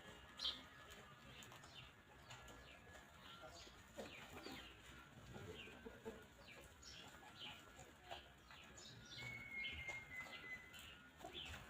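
Faint chickens with small birds: many short, high, falling chirps throughout, and one held high whistled note about nine seconds in.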